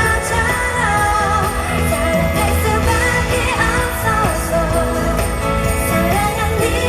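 Live pop song at a concert: a female singer's voice carries the melody over full band backing, loud and continuous.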